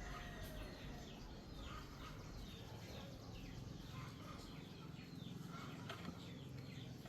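Small birds chirping over and over in the background, short falling chirps, with a couple of sharp clicks about six seconds in.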